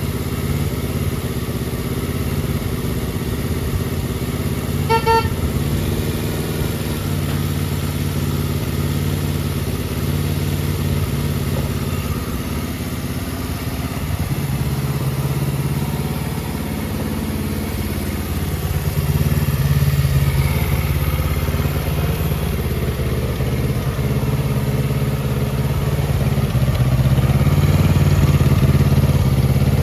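Kawasaki Z250FT motorcycle engine idling through an aftermarket muffler, its level rising a little partway through and again near the end. A short beep of the horn about five seconds in.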